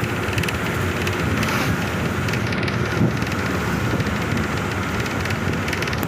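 Steady running noise of a moving bus heard from inside the cabin: engine, tyres on the road and wind.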